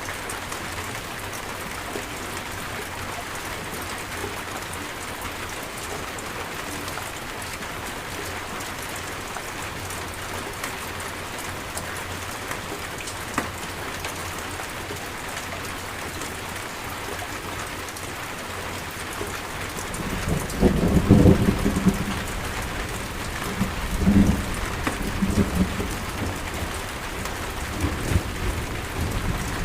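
Steady heavy rain hissing. About two-thirds of the way through, thunder starts rumbling, loudest at first and swelling again a few times toward the end.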